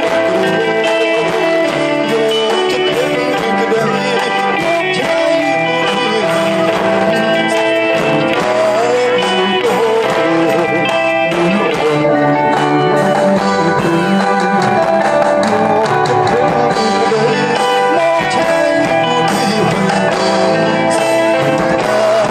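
Band music: an instrumental passage led by guitar over steady accompaniment, with no singing.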